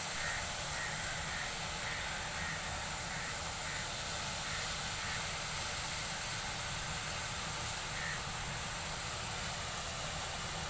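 Corn harvester running steadily in the field, a constant machine drone with a low rumble. A crow caws repeatedly over it in the first half, and once more near the end.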